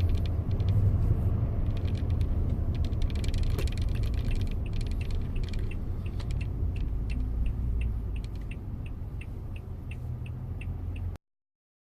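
2019 Toyota Tundra TRD Pro's 5.7-litre V8 with its true dual exhaust, heard from inside the cabin while driving: a steady low rumble that slowly eases off. From about four seconds in there is a regular ticking of two to three clicks a second, and the sound cuts off abruptly near the end.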